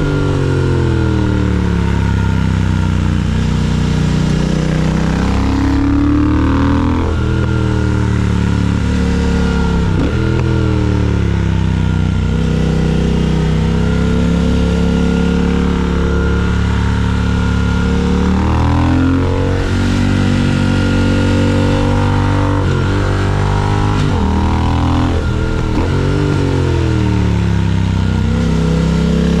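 Triumph Speed Twin 1200's 1200 cc parallel-twin engine running on the move. Its pitch climbs and drops sharply several times as it pulls through the gears, and between pulls it falls away gradually off the throttle.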